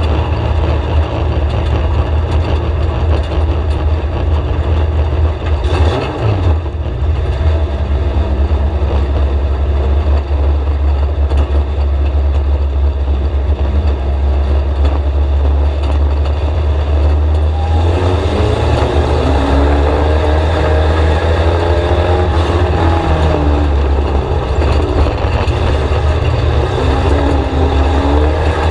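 VW Scirocco race car's four-cylinder engine heard from inside the cockpit, loud, with a heavy low rumble. From about two-thirds of the way in, its revs rise and fall again and again.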